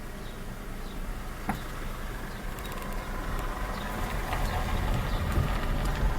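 Engine running with a steady low rumble that grows louder through the second half, with a single sharp click about a second and a half in.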